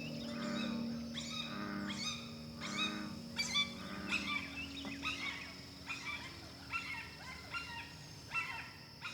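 Forest wildlife calling, mostly birds: short chirping calls repeat about every half second over a steady high-pitched hum.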